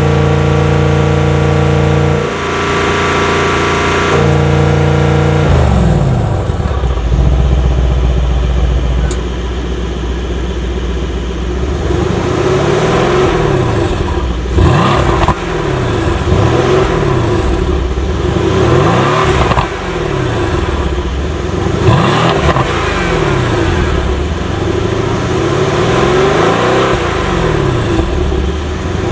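Mercedes-AMG C63 S 4.0-litre twin-turbo V8 with a loud exhaust, holding a steady note for the first few seconds, then repeatedly revving up and dropping back as it pulls through the gears. A few sharp cracks stand out along the way.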